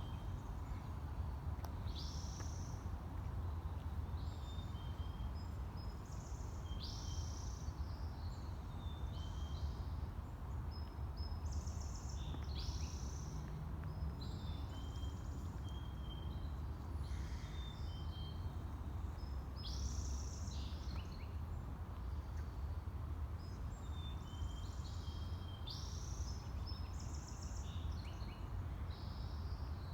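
Small birds chirping, many short calls one after another, over a steady low rumble.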